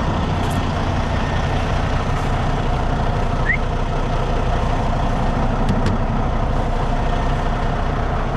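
Heavy diesel truck engine running steadily. A short rising squeak sounds about halfway through.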